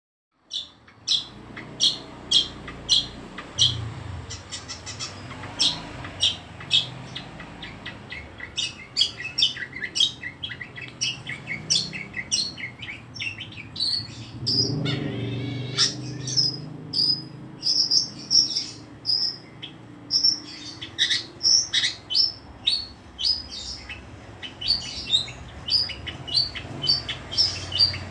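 Long-tailed shrike singing in a long, busy run of sharp, high chirps and short whistled notes, with some longer held notes partway through.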